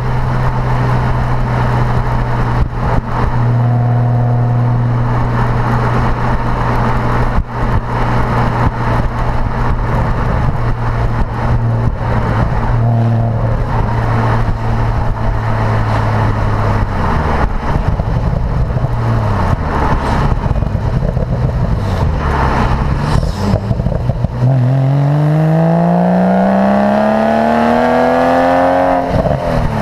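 Porsche Boxster engine through its performance sports exhaust: a steady engine note as the car cruises, wavering up and down for a few seconds, then a hard acceleration with the pitch climbing steadily for about five seconds before cutting off sharply near the end.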